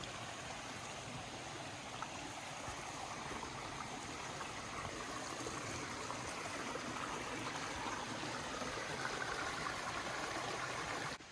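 Creek flowing, a steady rush of water that stops suddenly near the end.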